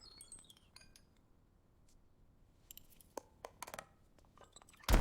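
A short high tinkling chime, then a few light clicks and glassy clinks, ending with a louder knock.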